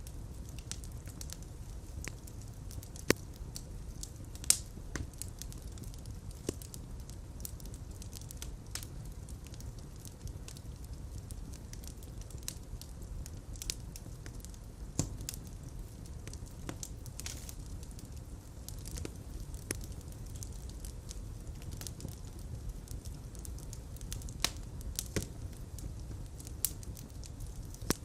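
Fire crackling in a fireplace: scattered sharp pops, a few of them much louder, over a steady low rumble of flame.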